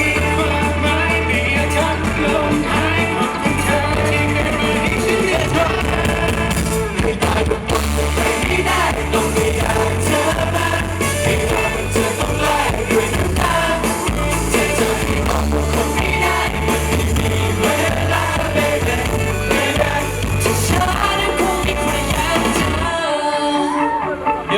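Thai pop song played loud over a live PA, with a steady bass beat and some singing. Near the end the high end drops out briefly, leaving mostly bass.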